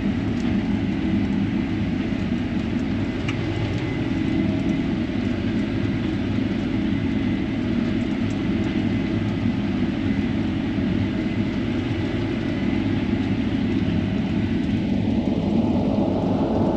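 Combine harvester running steadily at full throttle while cutting grain, a continuous machine drone heard from inside the cab.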